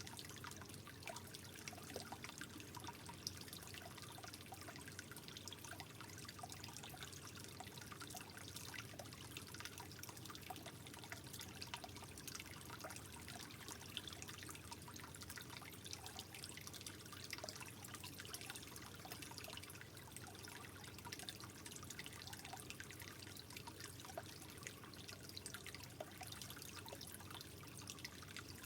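Water trickling steadily, with many small drips and plinks scattered through it.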